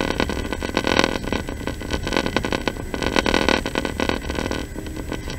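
Passenger train running, heard from inside the carriage: a steady rumble with dense, irregular rattling and clicking.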